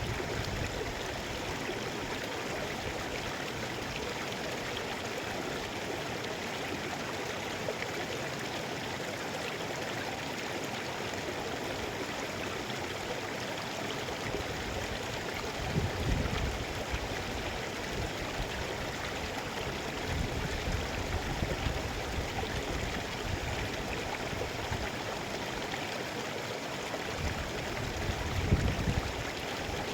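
Mountain river rushing and gurgling over rocks in a steady wash of water noise, with a few brief low rumbles about halfway through and near the end.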